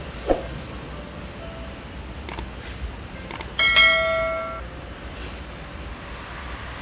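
A few light clicks, then a sharp metallic strike that rings for about a second and fades, over a steady background hum.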